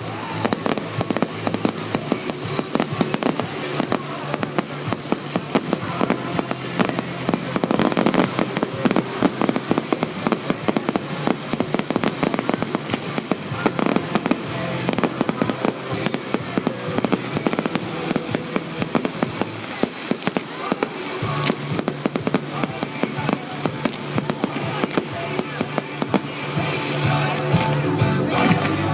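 Fireworks display: a rapid, continuous run of bangs and crackles over music playing through a sound system.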